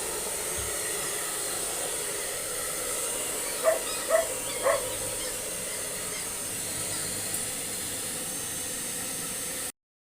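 Steady hiss of a blow dryer running, with three short dog barks about half a second apart around four seconds in. The sound cuts off abruptly near the end.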